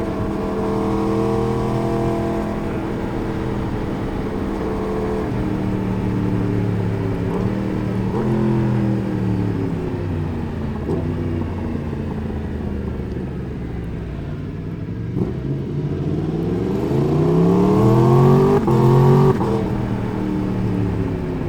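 Four-cylinder sportbike engine heard onboard while riding, its pitch holding and then easing down, before it revs up hard under acceleration near the end and cuts off sharply as the throttle is closed.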